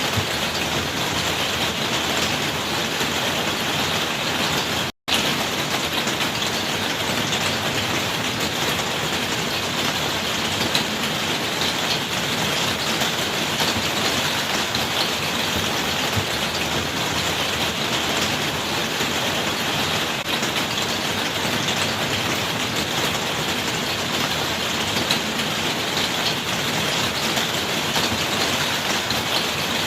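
Steady rainfall, an even patter of rain on surfaces with no distinct drops standing out. It cuts out completely for a split second about five seconds in.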